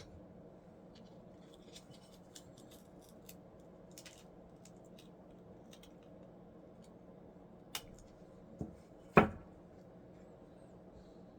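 Small parts and hand tools being handled on a workbench: light clicks and scrapes, then three knocks near the end, the last and loudest about nine seconds in, over a low steady hum.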